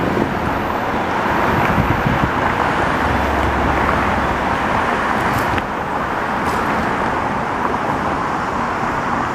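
Passing train: a steady rolling rumble with diesel engine noise, swelling over the first couple of seconds and then holding level.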